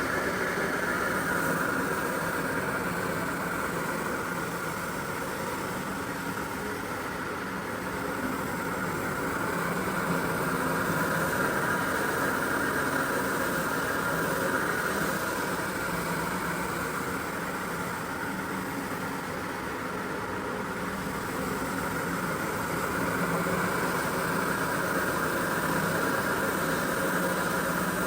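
A steady motor running continuously, its loudness easing off and picking up again slowly twice.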